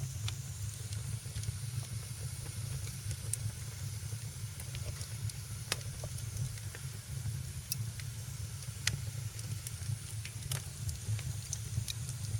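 Wood fire burning in a fireplace: a steady low rumble and hiss with sharp crackles and pops at irregular moments, a handful of them louder than the rest.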